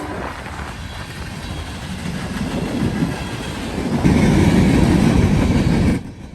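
Eastbound freight train of empty coke cars rolling past, growing louder about four seconds in, then cutting off sharply near the end.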